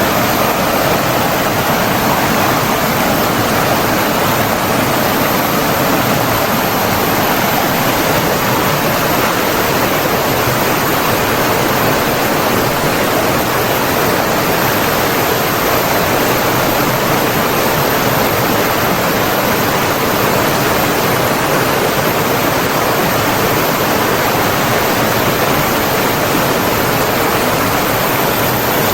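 Flowing water rushing steadily, a stream or waterfall giving an even, unbroken hiss.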